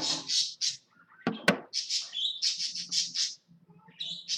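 A bird chirping in quick runs of short high notes, with a brief knock or rustle about a second and a half in.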